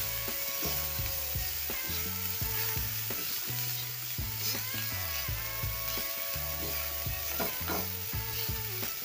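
Onions, garlic and herbs sizzling in oil in a non-stick frying pan while a wooden spatula stirs and scrapes them around in repeated strokes, over background music.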